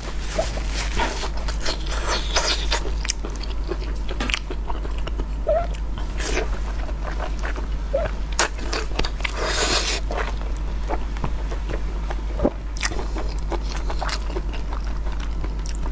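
Close-miked eating sounds: chewing and wet mouth clicks and smacks while eating soft, tender blood sausage, over a steady low hum.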